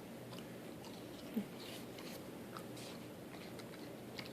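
A dog chewing and gnawing on something, faint, with small scattered clicks.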